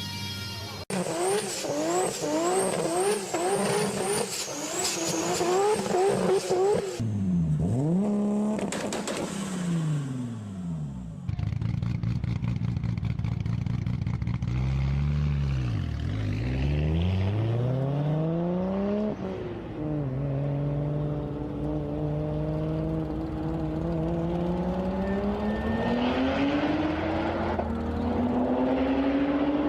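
Toyota Supra MK4 inline-six engine in a run of short clips. First it is revved in quick repeated climbs that snap back, several a second. Then it is revved up and down. Last it pulls under acceleration, its pitch climbing slowly and steadily.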